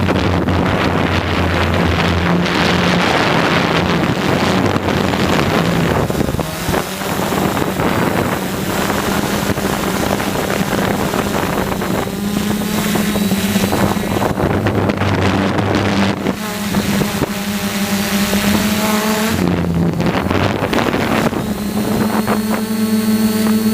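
DJI F450 quadcopter's four electric motors and propellers running in flight, their hum shifting up and down in pitch several times as the throttle changes, with wind buffeting the microphone, loudest in the first few seconds.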